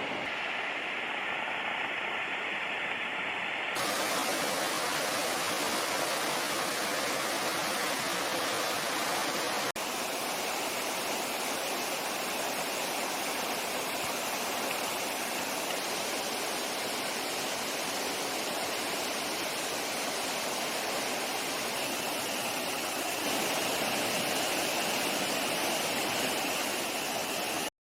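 Waterfall and its stream rushing in a steady, dense noise of falling water, running high, perhaps from the previous days' rain. The sound changes abruptly in tone about four seconds in and again near the end, and cuts off suddenly at the very end.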